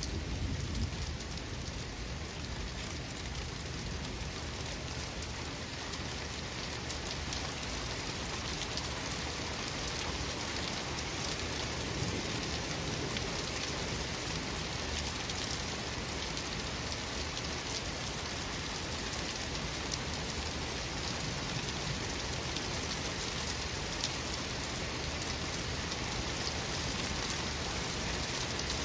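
Steady rain falling, an even hiss of drops pattering on a surface.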